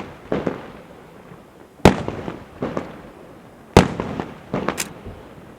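Festa fireworks going off: two sharp loud bangs about two seconds apart, each followed by a quick rattle of smaller cracks that fades away.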